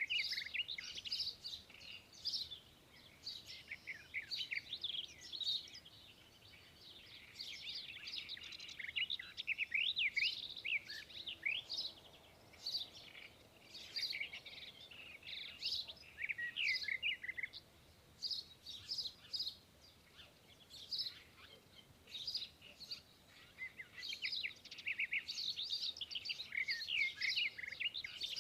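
Birds chirping and singing: a steady stream of short, high, quickly gliding chirps, with a few brief lulls.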